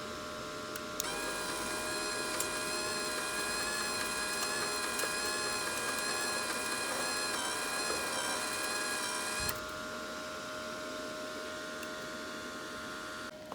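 A small electric motor whirring steadily for about eight seconds over a constant electrical hum. It starts about a second in and stops suddenly near the end; the hum carries on.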